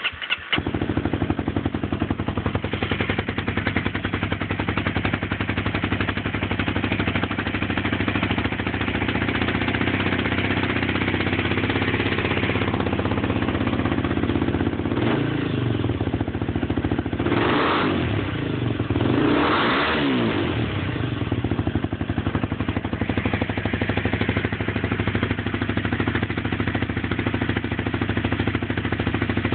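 Honda CBR250R single-cylinder motorcycle engine, fitted with a Two Brothers aluminum M2 VALE exhaust with its insert in, running at a steady idle. About halfway through it is blipped three times, revving up and dropping back to idle.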